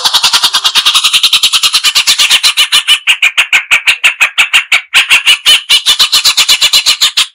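Crested finchbill (cucak cungkok) singing a fast, dense chattering song of short repeated notes, about ten a second, with a brief break about five seconds in.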